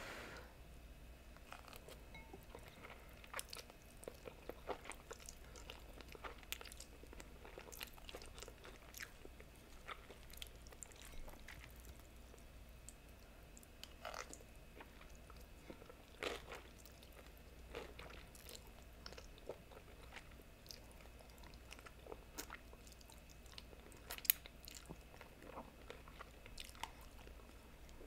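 Faint close-up chewing of noodles topped with crisp tortilla strips, with many small irregular mouth clicks and soft crunches and one sharper click about 24 seconds in.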